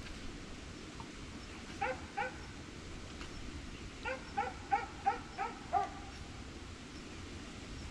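Short, high-pitched animal calls: two close together, then a quick run of six a couple of seconds later.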